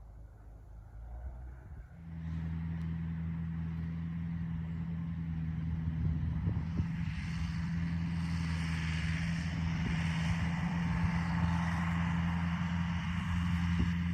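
International Harvester 574 tractor engine running steadily with a low hum, coming in suddenly about two seconds in. A rushing noise builds over it from about seven seconds.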